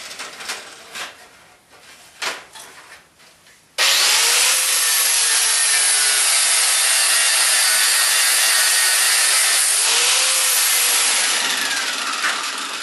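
Power tool cutting through steel, a steady harsh noise that starts abruptly a few seconds in and tails off near the end, after a few light handling knocks.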